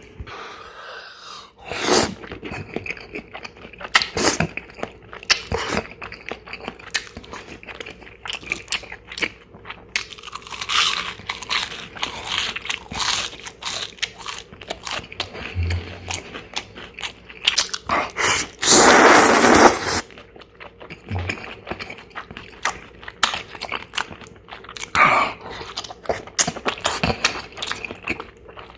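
Close-miked eating: a person biting, chewing and crunching food in a steady run of crisp little crunches, with one louder rustling burst lasting about a second partway through.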